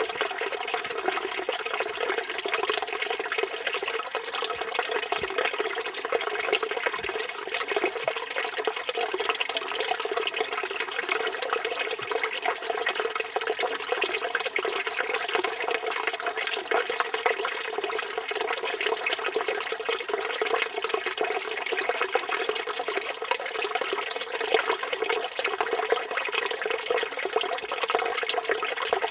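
Water pouring steadily from a village fountain's spout and splashing into its stone basin: a constant, even splashing.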